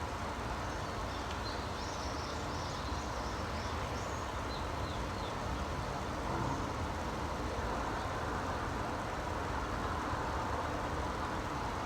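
Small birds chirping in short high notes for the first few seconds, faint against a steady broad hiss and low rumble of background noise.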